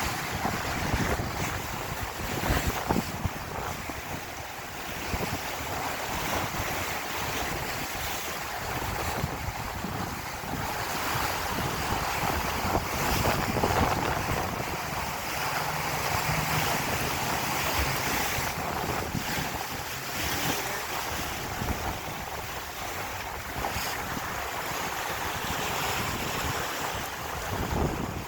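Wind buffeting the microphone over waves rushing along a sailboat's hull: a steady noisy rush that swells and eases.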